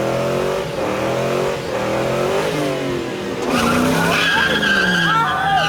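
Mustang engine revving hard during a burnout, its pitch rising and falling again and again. Tires squeal and skid on the pavement from about halfway in.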